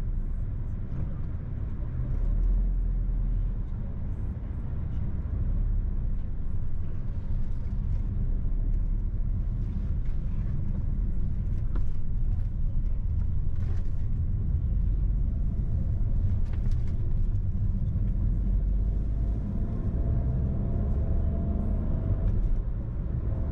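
A car driving on the road: a steady low rumble of engine and tyres.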